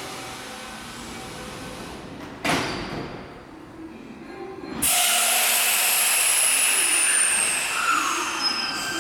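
Kintetsu 9820 series electric train pulling out of an underground platform: its doors shut with a thud about two and a half seconds in, then a sudden loud hiss of air as the brakes release. Near the end the traction inverter's whine starts, with tones gliding down in pitch as the train begins to move.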